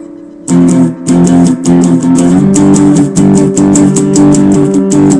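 Guitar playing power chords, strummed in a quick even rhythm. It starts after a short pause about half a second in and changes chord a little past halfway.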